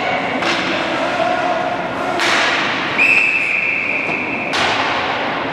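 Hard knocks of hockey sticks and a puck echoing around an ice rink, followed by a referee's whistle blown once and held for about a second and a half, stopping play.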